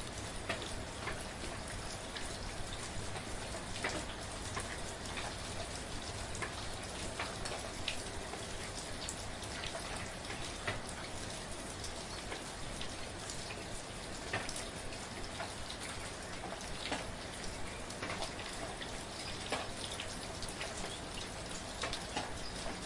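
Steady rain falling, a constant hiss with many distinct drops ticking on a surface, scattered irregularly throughout.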